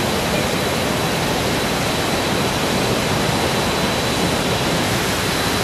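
Cemerung waterfall's falling water: a loud, steady, even rush with no break.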